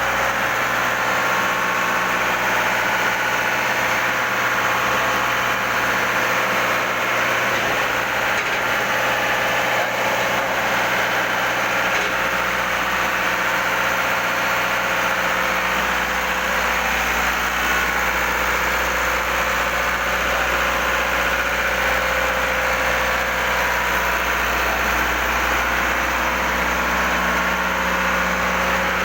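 Engine-room machinery running steadily: a loud, even drone with a few constant hum tones over a broad hiss.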